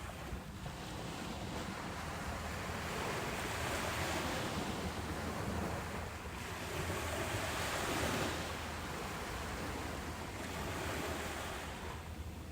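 Ocean waves breaking and washing up a beach, a steady roar of surf that swells twice, about a third and two-thirds of the way through, and ebbs in between.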